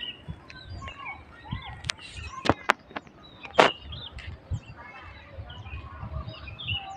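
Small birds chirping and twittering in the trees in many short, high calls, with a few sharp clicks around the middle.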